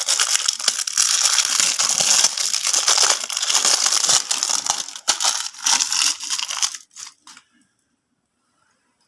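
Insulating tape pulled off the roll and wrapped around a motorcycle's rectifier-regulator wiring connector. It makes a crackling, tearing rasp that stops about seven seconds in.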